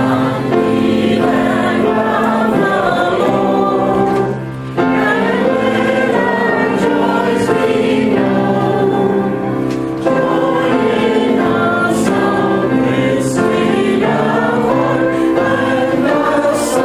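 A church congregation singing a hymn together with keyboard accompaniment. The singing pauses briefly twice, just after four seconds and near ten seconds, between phrases.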